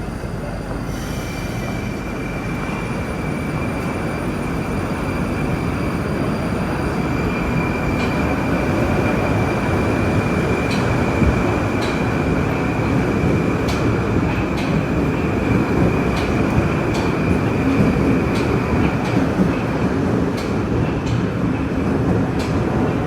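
Metro train running, with a steady rumble, a high steady squeal held for most of the time and scattered sharp clicks in the second half; the sound grows gradually louder.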